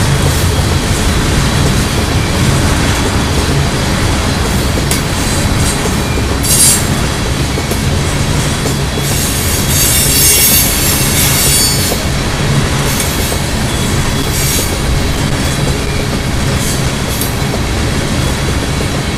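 A freight train of loaded oil tank cars rolling past close by: a steady rumble and clatter of steel wheels on the rails. Wheels squeal in short high-pitched bursts about 6 and 14 seconds in, with a longer squeal from about 9 to 12 seconds in.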